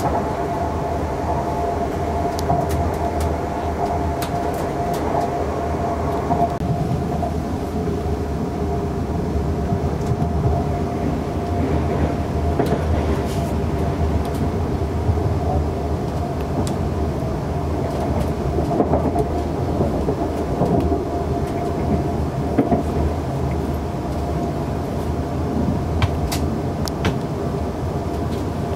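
Interior sound of a South Western Railway electric passenger train running at speed: a steady rumble of wheels on rail with a constant motor whine and scattered clicks over rail joints.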